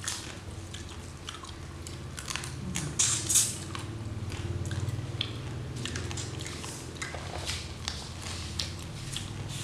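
Close-miked eating sounds of raw spicy crab and raw greens being chewed: wet chewing and smacking with sharp crunches, the loudest two about three seconds in.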